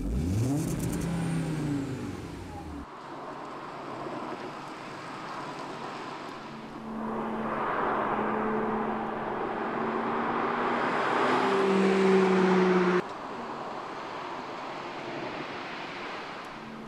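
BMW M2's turbocharged straight-six engine running as the car drives by, its note steady and then climbing before cutting off abruptly about two-thirds of the way through, after which a quieter engine sound carries on. It opens with a brief engine rev that sweeps up in pitch.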